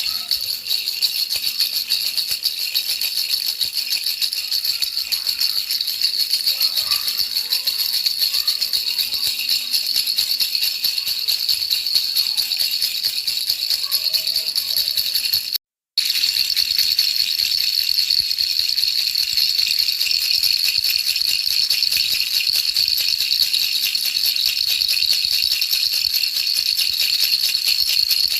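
Baby rattle shaken fast and without pause, a steady jingling rattle played as sleep noise for infants; it drops out for a split second about halfway through, then carries on unchanged.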